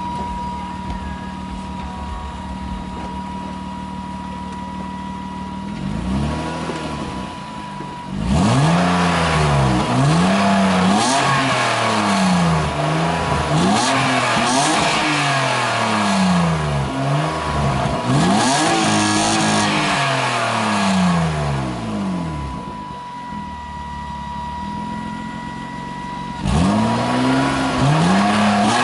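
BMW E30's M52B25 2.5-litre straight-six running through its exhaust: it idles steadily, then is revved repeatedly in quick rises and falls of pitch for about a quarter of a minute. It settles back to idle and is revved again near the end.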